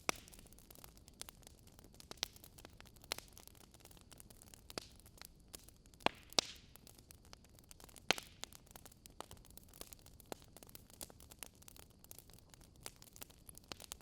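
Wood fire crackling: irregular sharp pops and snaps over a faint steady hiss, with the loudest pops about six seconds in and again about eight seconds in.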